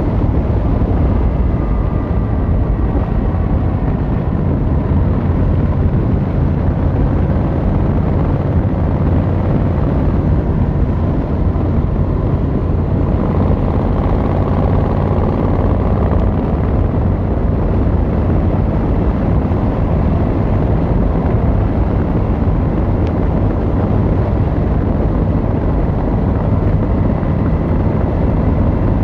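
Yamaha XVZ1300 Royal Star's V4 engine and exhaust running steadily under way on the road, a low, even engine note with no gear changes or breaks.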